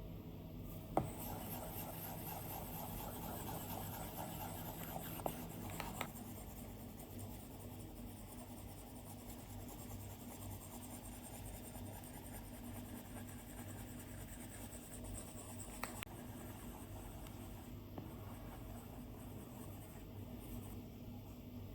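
Stylus drawing on an iPad's glass screen: a steady, soft scratching of strokes, with a few sharp taps of the tip on the glass, one about a second in, two around five to six seconds, and one near sixteen seconds.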